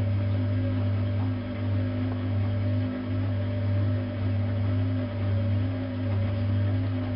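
Bosch WFK 2431 washing machine's drum motor running with a steady low hum that swells and dips about once a second as the drum turns. This motor noise is unusually prominent on this machine.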